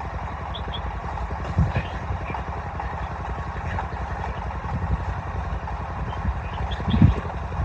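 An engine running steadily with a low pulsing rumble, with a louder low thump about a second and a half in and another near the end.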